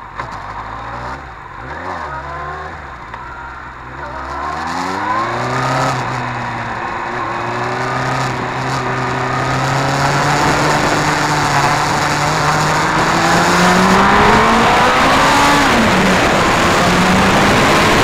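Yamaha YZF-R1 motorcycle's inline-four engine running at low revs, then accelerating, its pitch climbing slowly, dipping near the end and rising again. Wind noise on the bike-mounted camera grows louder as the bike gains speed.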